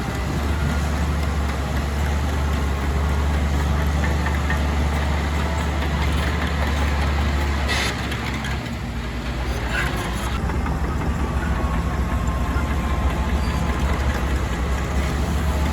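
Heavy diesel engine of earthmoving machinery running steadily with a low drone, with a brief sharp noise about eight seconds in.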